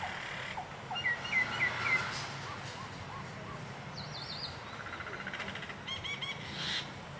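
Birds chirping: a run of four quick chirps about a second in, then fainter calls, a short trill and a quick series of repeated notes near the end, over a steady low hum.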